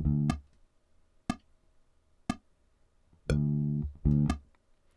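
Electric bass guitar playing a short exercise figure twice: a held note followed by a short one. Sharp clicks about a second apart, like a metronome, mark the beats between the notes.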